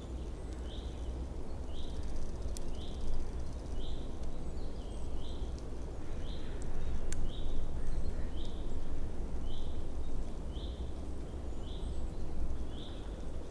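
A small songbird repeating one short, high call a little faster than once a second, over a steady low outdoor rumble.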